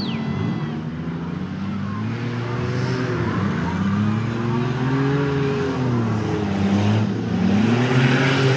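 Engines of several old sedans racing on a dirt track, revving up and down over one another in repeated rising and falling sweeps. They get louder with a rush of noise about seven seconds in.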